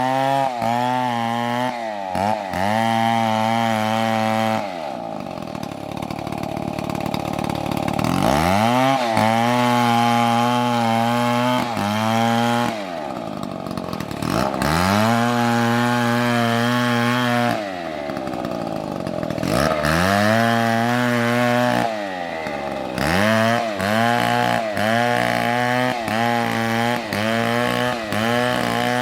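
Two-stroke chainsaw running at high revs. Its engine speed dips and climbs back several times.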